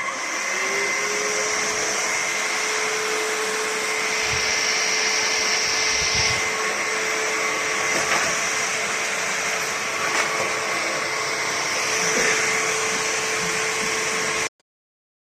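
Vexilar V9PRO cordless stick vacuum running. Its motor spins up to a steady whine within the first second, over a loud airflow hiss, with a few faint knocks. It stops abruptly near the end.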